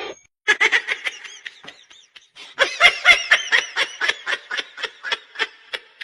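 A person laughing in two bouts of quick, rapidly repeated pulses, the second bout longer.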